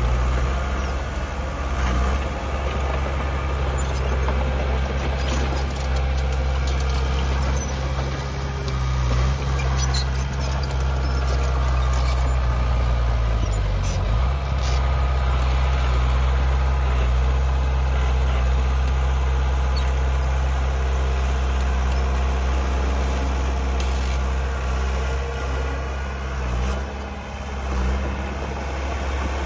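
Heavy diesel construction machinery running steadily with a deep engine note that dips in pitch briefly about halfway through and again near the end, with scattered clanks and knocks.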